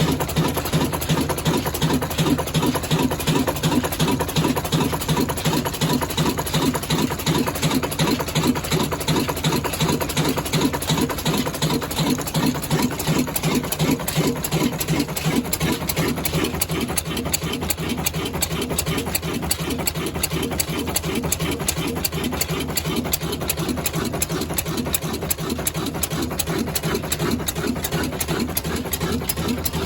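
Old Ruston Hornsby stationary diesel engine running steadily with an even, rhythmic beat.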